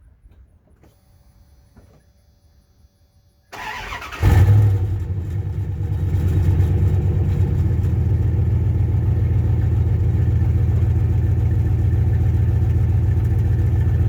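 Dodge Ram pickup's engine cranked by the starter, catching about four seconds in with a brief rev, then settling into a steady idle, running on its newly installed fuel pump.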